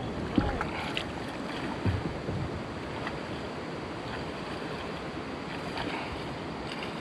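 Steady outdoor water and wind noise, with a few soft low knocks in the first couple of seconds.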